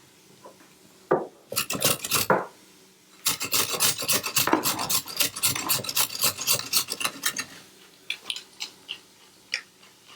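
Rapid rasping scrapes of something rubbed hard against a surface: a short run about a second in, a dense run of quick strokes for about four seconds, then a few scattered scrapes.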